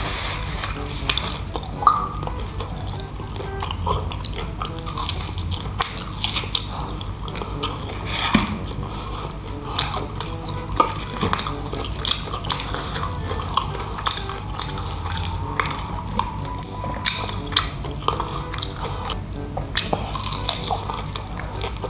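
Close-up chewing and biting of crispy Jollibee fried chicken, with many short crunches and mouth clicks, over soft background music.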